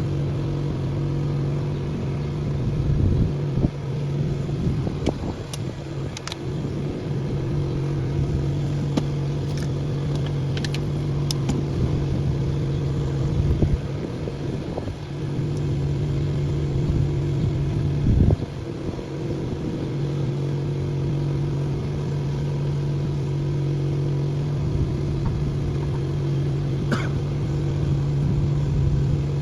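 An engine running steadily with a low hum, which weakens for a stretch and then returns, with scattered knocks and clicks over it.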